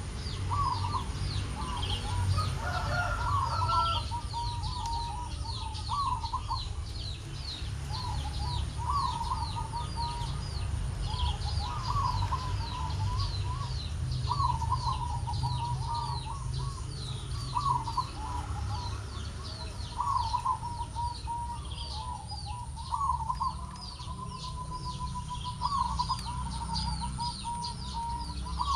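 Zebra dove (perkutut) cooing repeatedly in short trilled phrases, one every second or two, singing actively. Many small birds chirp in quick high notes behind it, over a steady low rumble.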